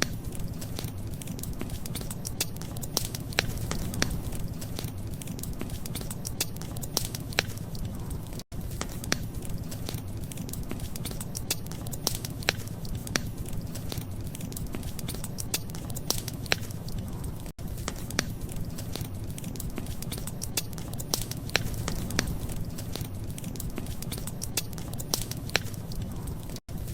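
Wood fire crackling: frequent sharp pops and snaps over a steady low rumble. The sound drops out for an instant three times, about nine seconds apart.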